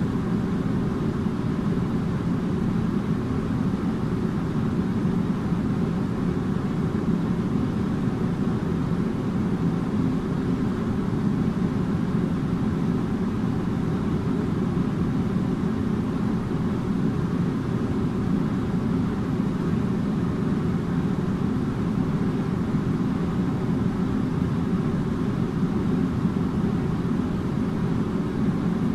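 Air conditioner running steadily: an even whooshing hum from its fan and compressor, with a faint steady tone.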